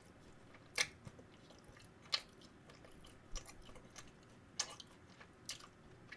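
A person chewing a mouthful of sauced fried chicken close to the microphone: quiet chewing with about six short, scattered crunchy clicks.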